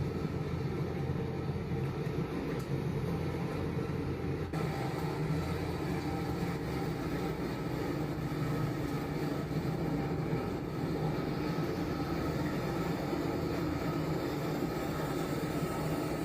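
Fast-flowing floodwater rushing, a steady loud roar with no break, with an abrupt change about four and a half seconds in.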